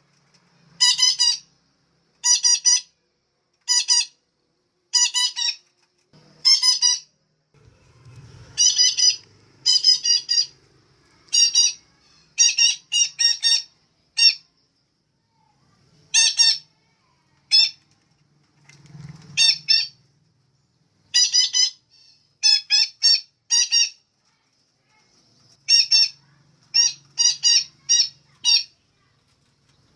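Female betet parakeet calling over and over in short, harsh squawks, some single and some in quick runs of two to four, with gaps of a second or so between them.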